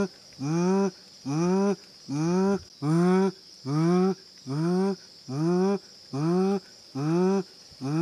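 A bird's low hooting call, repeated very evenly about once every 0.7 seconds, each note rising and then bending down, over a steady high insect drone.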